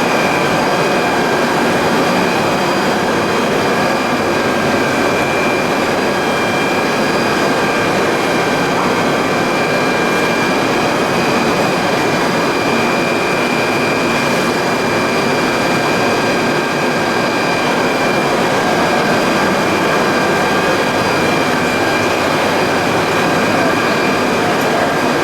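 Industrial plastic pelletizing line machinery running steadily: a loud, even mechanical noise with a steady high-pitched whine over it.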